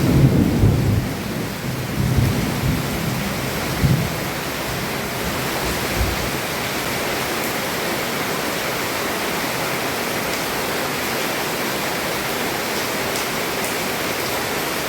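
Heavy rain pouring steadily, heard from under a roof, with low thunder rumbling in the first second and a few shorter rumbles up to about six seconds in.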